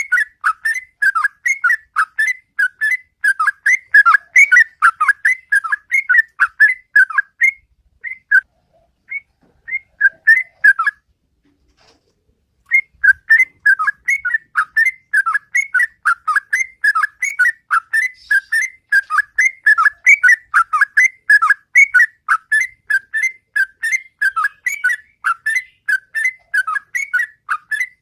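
Sooty-headed bulbul (trucukan) singing its loud, long-running song of rapid whistled notes, about three a second. The song thins out about eight seconds in, stops for a couple of seconds, then picks up again and runs on.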